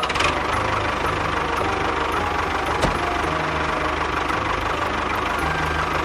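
A small engine running steadily with a fast, even knocking rhythm, with a single sharp click about three seconds in.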